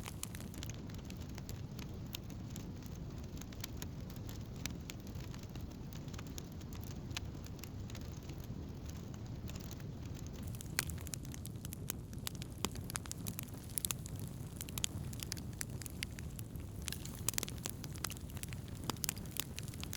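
Wood campfire crackling, with frequent small sharp pops and snaps over a steady low rush of burning. The pops come more thickly in the second half.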